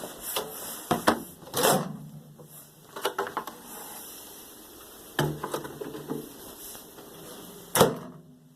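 Kitchen handling sounds during ramen preparation: a string of separate knocks and clacks as things are picked up, set down and opened or closed, some leaving a short low ring, the loudest a sharp knock near the end.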